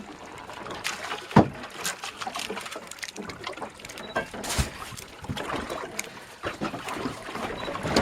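Water lapping against a small boat's hull, with scattered knocks and clatter on board; the loudest is a sharp thump about a second and a half in.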